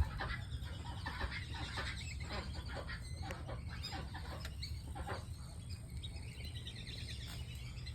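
Muscovy ducks and ducklings calling with many short chirps and clucks, busiest over the first five seconds and thinning out after, over a steady low hum.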